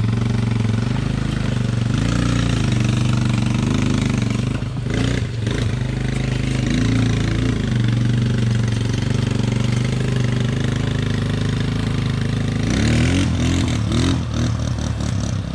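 Off-road vehicle engine running under load while towing a jet ski on a rope, its pitch rising and falling a few times, with a brief clatter about five seconds in and a rev-up near the end.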